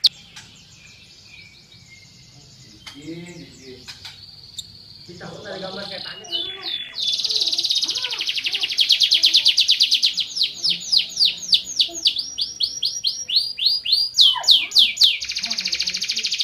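Van Hesterling canary singing. After a few quiet seconds, a loud song of fast, rapidly repeated high notes begins about six seconds in; its trills speed up and slow down and run on almost to the end.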